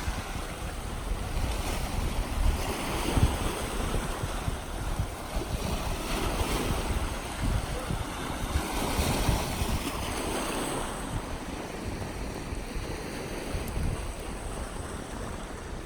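Sea waves washing on the shore, swelling and falling every few seconds, with wind gusting on the microphone.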